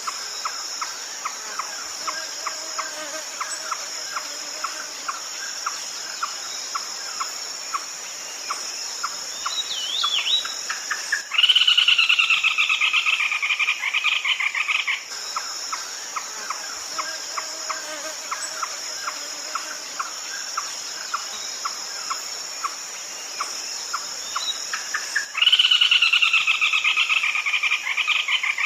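Red-legged crake calls: a steady series of short notes about two a second, broken twice by a loud, rapid, harsh run of calls that lasts three to four seconds and fades. A constant high insect buzz runs underneath.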